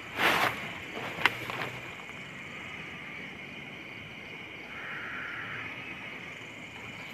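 Night forest ambience with a steady high drone of insects. There is a short rustle just after the start and a sharp click about a second in.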